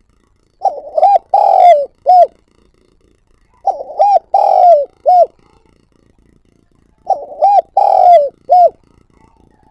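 Spotted dove cooing its calling song: three phrases about three seconds apart, each a run of short coos with one longer, drawn-out coo near the end.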